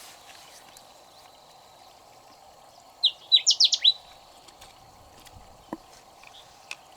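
A songbird sings one short phrase of quick, downward-sweeping whistled notes about three seconds in, over the steady rush of flowing river water.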